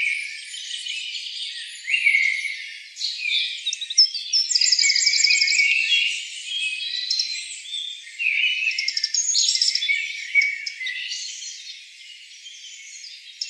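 Several birds chirping and trilling over one another, with quick repeated notes and short rising and falling calls, busiest in the first half.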